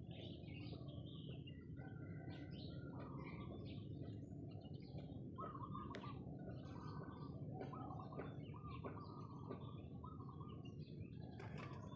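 Faint background birdsong: many short chirps and calls from several birds, over a low steady ambient noise.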